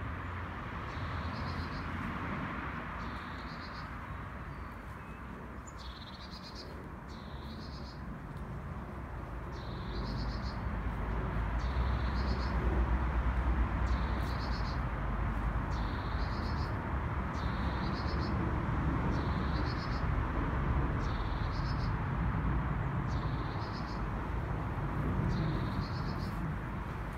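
A bird calling over and over, a short buzzy trill repeated about every one and a half seconds, over a steady background hiss. A low rumble grows from about ten seconds in.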